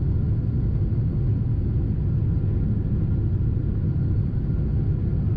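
Steady low rumble of a Boeing 747-8 airliner's cabin in flight, engine and airflow noise heard from an economy seat during the start of the approach.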